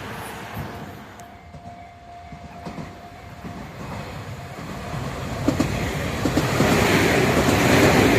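Tobu Tojo Line train running past on the rails: the sound dies down, a faint steady tone sounds, and then it builds up again from about halfway, growing louder with wheels clicking over rail joints.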